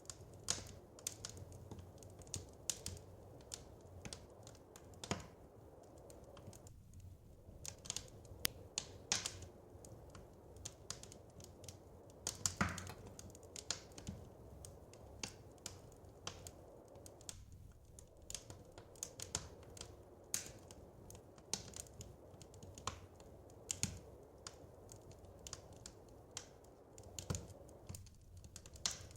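Wood fire crackling in a fireplace: irregular snaps and pops, a few louder ones among them, over a low steady hiss.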